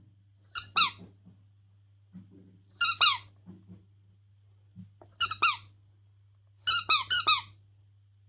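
Squeaky dog toy being squeezed, giving short high squeaks that drop in pitch, in four bunches of two to four about every two seconds. A steady low hum runs underneath.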